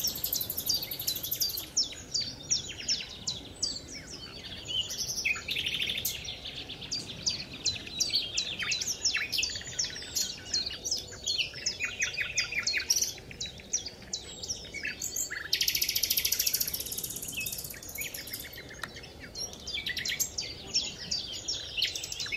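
Songbirds singing and chirping, several at once, with quick repeated trills.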